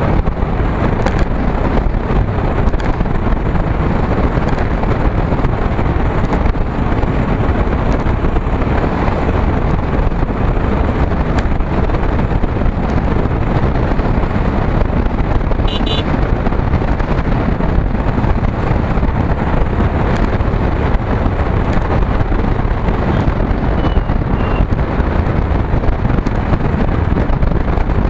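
Wind buffeting the microphone of a moving motorcycle, mixed with its engine and road noise: a loud, steady rush.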